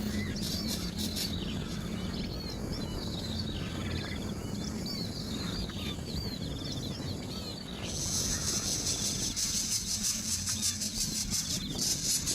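Small birds giving many short, repeated chirps over a steady low hum. About two-thirds of the way through, a loud, rapidly pulsing high-pitched insect buzz sets in.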